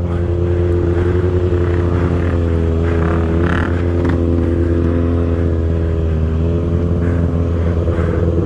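Stunt motorcycle engine running steadily at low, nearly constant revs, with a heavy low rumble.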